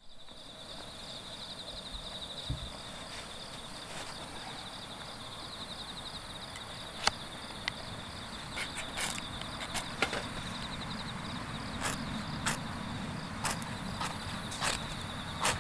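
Wood campfire crackling, with scattered sharp pops that come more often in the second half, over the steady chirring of insects such as crickets.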